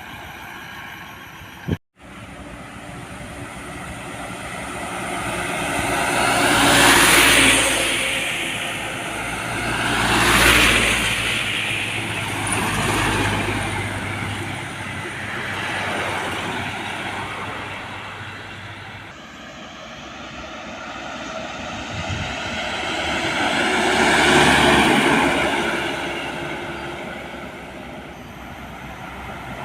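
Road traffic: trucks passing close by one after another, about five pass-bys, each swelling and fading, over a steady low engine drone.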